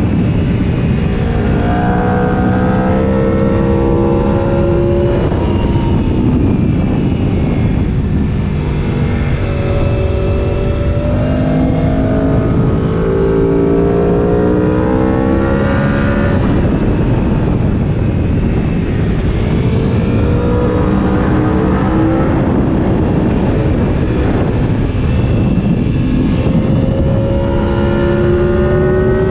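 Sport motorcycle engine accelerating hard, its pitch climbing and then dropping at each shift several times, under heavy wind rush on the microphone.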